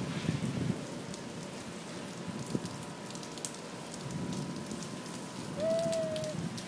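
Rain falling steadily, with scattered sharp drop hits. A brief steady tone sounds once near the end.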